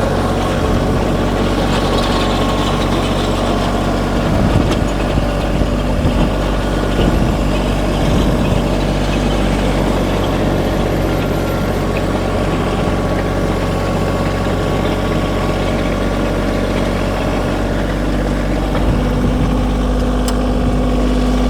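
Kioti compact tractor's diesel engine running steadily under load while pulling a drag along a gravel driveway, with the rough noise of rock being scraped and dragged underneath.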